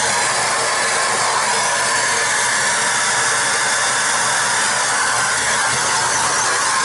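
Vacuum cleaner running steadily with a high-pitched hiss of suction while it vacuums dust out of an emptied central vacuum canister.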